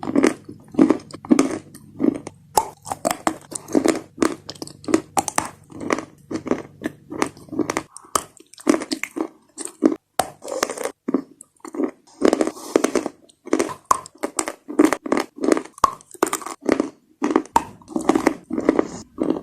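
Close-up bites and chewing of chalk mixed with paste: wet, crackly crunches repeating about two or three times a second.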